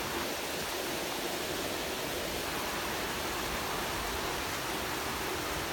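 Heavy thunderstorm rain falling as a steady, even hiss.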